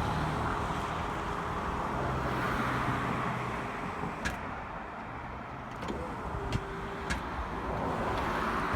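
Bucket truck's battery-powered boom hydraulics running slowly with the truck's engine off, a low hum that cuts out for a couple of seconds midway and then starts again, over a steady hiss: the stop-and-go of a boom running down on its battery.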